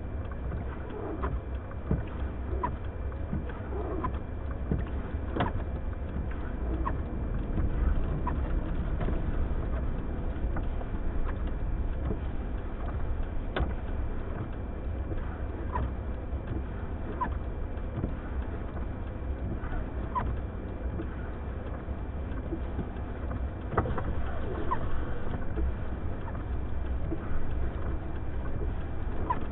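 Steady low rumble of blizzard wind around a vehicle, with faint short squeaks recurring about every one and a half seconds.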